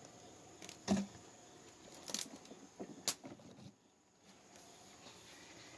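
A few light clicks and knocks, spaced irregularly, over a faint steady background; the sound drops out briefly just before the middle.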